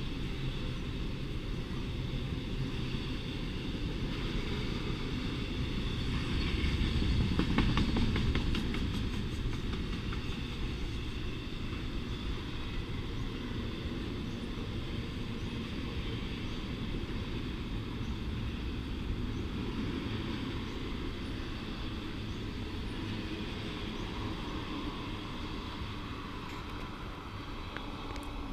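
Double-stack container cars of a freight train rolling along the rails: a steady rumble of wheels on track that swells with a quick run of clicks about seven or eight seconds in, then eases as the end of the train draws away.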